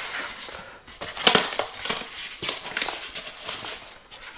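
Plastic packaging rustling and crinkling as model parts are handled and lifted out of a box, with irregular rustles and clicks, the loudest about a second in.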